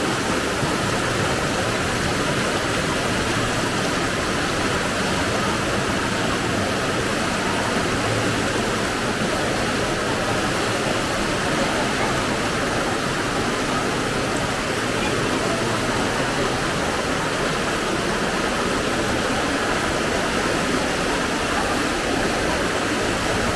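Strong floodwater rushing along a street in a steady, unbroken noise.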